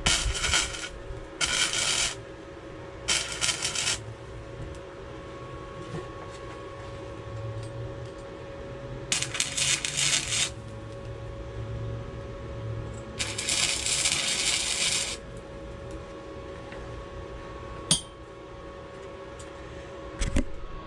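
Welder laying short beads on a steel bicycle frame gusset: five separate bursts of crackling, each a second or two long, over a steady hum. A single sharp click comes near the end.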